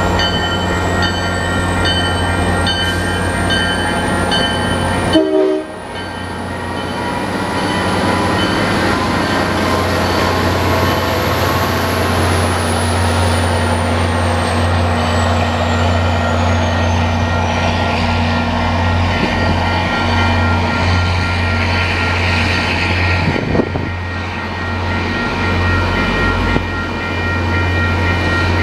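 Grade-crossing bell ringing while an MBTA commuter train's diesel locomotive approaches and runs across the crossing, its horn sounding and its coaches rolling by. There is a brief break about five seconds in.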